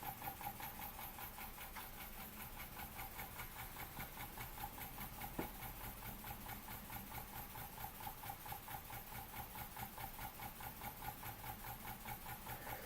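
Weeden 420 model steam engine running steadily under its own steam, a rapid, even puffing of exhaust with a faint steady hiss, its homemade crank and flywheel turning smoothly. A single sharp click about five seconds in.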